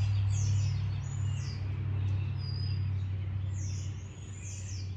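Birds chirping outdoors in repeated high, downward-sweeping calls, over a steady low hum that fades about three and a half seconds in.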